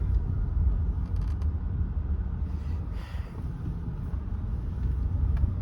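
2006 Lexus ES330 being driven, its 3.3-litre V6 and the road noise making a steady low rumble, with a few faint clicks.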